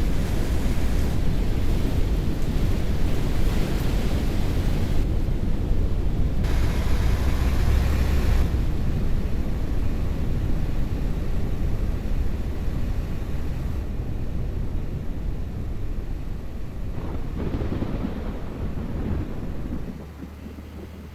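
Loud, steady rushing noise with a deep rumble, cutting in suddenly at the start and dropping off about 20 seconds in.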